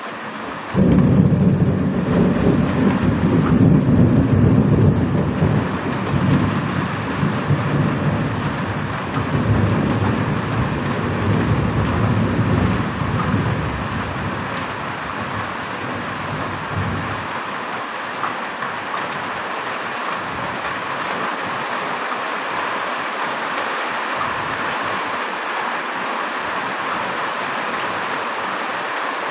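Heavy rain falling steadily, with a thunderclap about a second in that rolls on as a low rumble for about fifteen seconds before dying away, leaving the rain.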